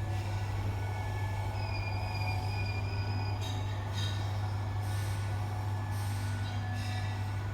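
CandCnC-driven stepper motors energized and making a steady low hum, with thin high-pitched whines coming and going over it: the unexplained noise that appears when the controller box is switched on.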